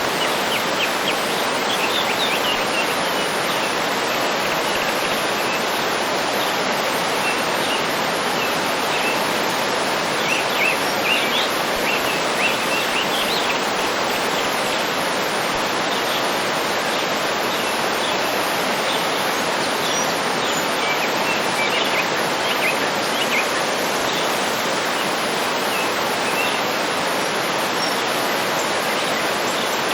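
Waterfall running steadily, with small birds chirping intermittently over it.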